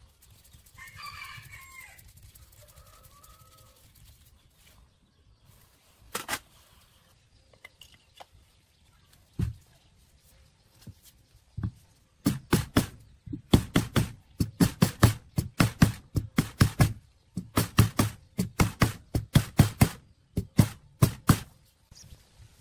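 A rooster crows once about a second in. From about twelve seconds on comes a long run of sharp knocks, several a second in quick groups, like hammer blows in the workshop; a few single knocks come before it.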